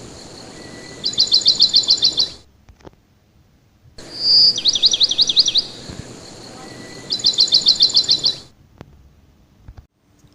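A small songbird singing rapid, high trills of quick falling notes, one of them opened by a clear held note, over a steady hiss. Each trill ends abruptly, and the last one stops about eight and a half seconds in, leaving only a few faint clicks.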